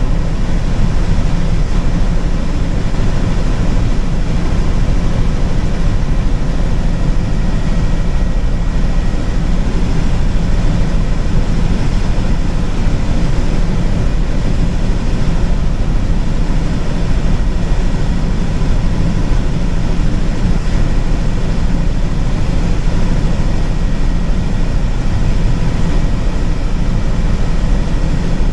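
Helicopter in flight: a loud, steady drone of rotor and engine, heaviest in the low end and unchanging throughout.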